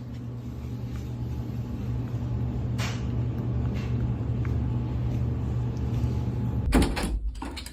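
A steady low motor hum that slowly grows louder. Near the end it gives way abruptly to a few loud knocks and clattering.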